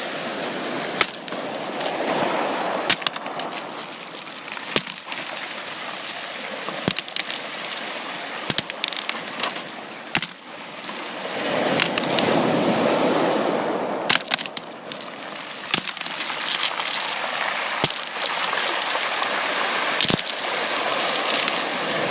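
Sea waves washing onto a beach: a steady surf noise that swells around two seconds in and more strongly at about twelve seconds. Many short sharp clicks are scattered throughout.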